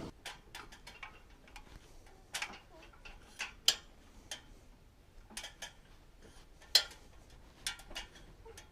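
Light, irregular clicks and knocks from climbing down a ladder with gear, a few of them sharper taps.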